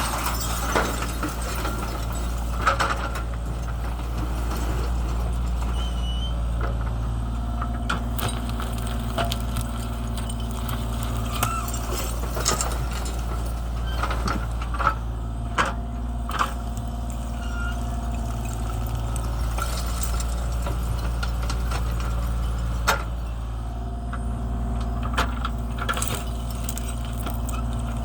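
Kubota KX033 mini excavator's diesel engine running steadily at working speed, with sharp clanks and clinks scattered through as the bucket pushes fire-pit debris, some of it glass, into a trench.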